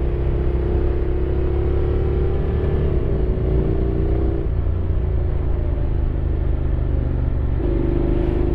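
Honda X-ADV 750's parallel-twin engine running under way with a steady low rumble. Its note shifts slightly in pitch about three seconds in, fades a little midway and comes back strongly near the end.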